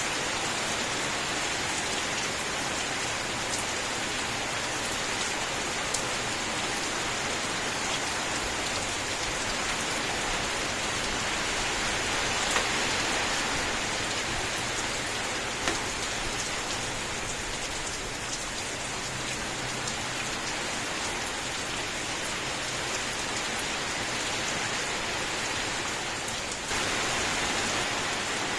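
Steady rain: a dense, even hiss of falling rain with a few sharper individual drop taps here and there, turning a little louder about two seconds before the end.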